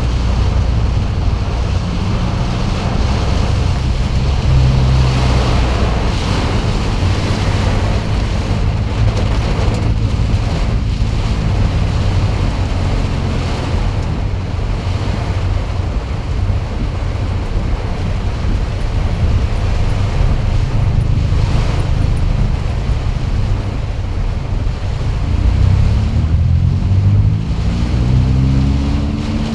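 Heavy thunderstorm rain and wind hissing steadily, with a low hum underneath that rises in pitch near the end.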